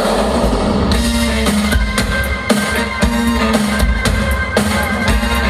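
Live band playing an instrumental passage without vocals, the drum kit to the fore: snare and rimshot hits about twice a second over bass drum, bass and held guitar or keyboard notes.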